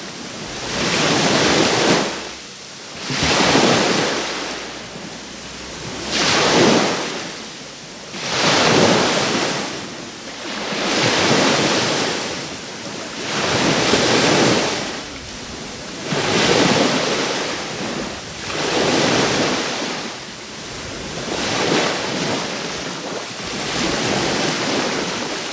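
Small waves breaking and washing onto the shore, one after another about every two seconds, each rising and falling away, with some wind on the microphone.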